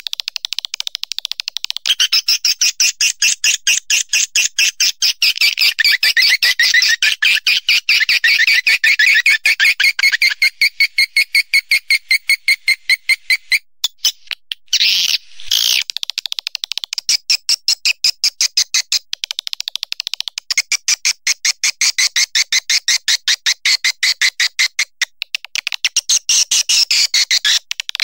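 Swiftlet lure recording: edible-nest swiftlets twittering in fast, dense trains of high chirps. It breaks off briefly about halfway with a short glitch, then resumes.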